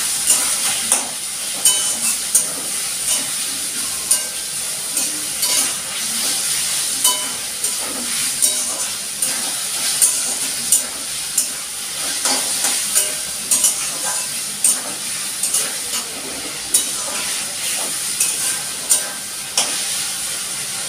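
Chicken and onions frying in oil in a steel kadai, with a steady sizzle. A metal spatula scrapes and clicks against the pan at irregular intervals as it is stirred.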